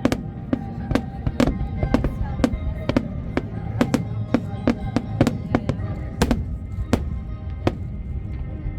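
Fireworks display: sharp, irregular bangs, about two or three a second, thinning out near the end, over music with held notes.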